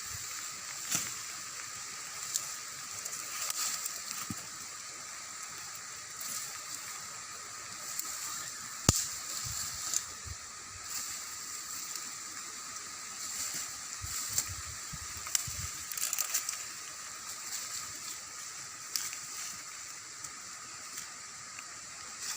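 Rain falling in a garden as a steady wet hiss under a faint high drone, with scattered knocks and splashes from handling plants on wet ground, the sharpest about nine seconds in.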